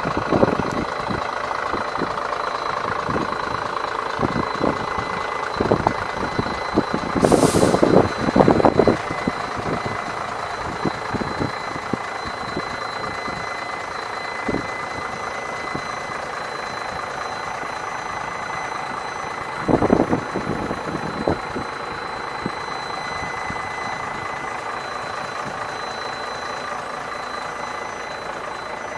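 Scania P94GB truck's diesel engine idling steadily, with a faint steady high whine over it. A short hiss of air comes about seven seconds in, and there are a few clusters of knocks and clatter around eight seconds and again near twenty seconds.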